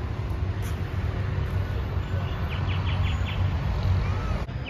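A bird gives a quick run of about five short chirps about halfway through, over a steady low rumble.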